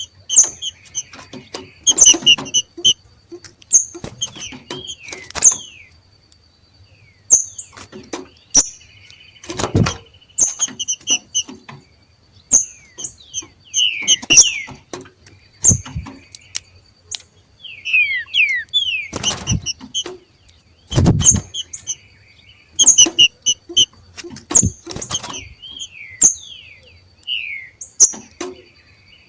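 Two green-winged saltators (trinca-ferro) giving their 'macheado' calls: bursts of short, sharp chirps every second or two, with some quick downward-sweeping notes. Sharp clicks are mixed in, the loudest about ten seconds in and near twenty-one seconds.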